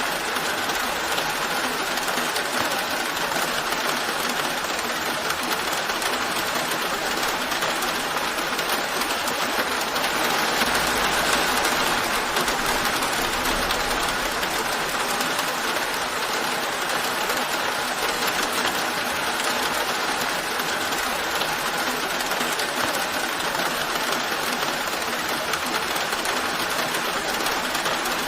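Steady rain falling, an even hiss that swells slightly around the middle, with a faint low rumble underneath for a few seconds.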